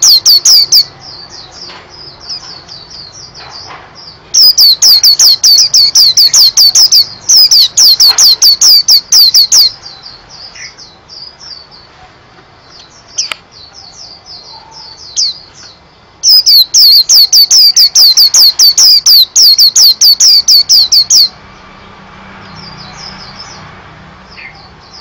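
A white-eye (pleci) singing: loud bouts of fast, repeated high whistled notes lasting a few seconds each, with softer twittering in between. The three main bouts start about four seconds in, nine seconds later, and the last about sixteen seconds in.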